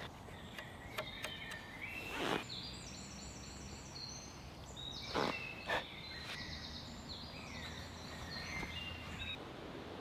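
A songbird singing a run of quick, high phrases of short repeated notes, with a few sharp knocks, the loudest near the middle, over a steady background hiss.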